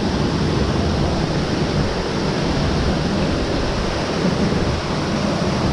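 Waterfall close by: a steady, loud rush of falling water, heaviest in the low rumble.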